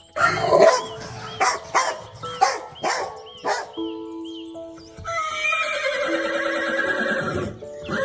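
A dog barking about six times in quick succession, then a horse whinnying in one long quavering call, over background music.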